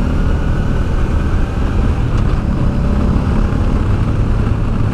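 Honda Deauville's 650 cc V-twin engine running under way, with heavy wind rush over the helmet-mounted microphone; the engine note settles to a steady tone about four seconds in.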